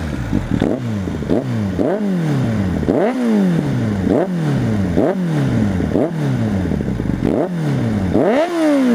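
Suzuki GSF 600 N Bandit's inline-four engine with an aftermarket exhaust being revved while standing, about nine quick throttle blips, each rising sharply and dropping back to idle, roughly once a second. The engine is still not fully warm, and the owner says backfire pops always come with it.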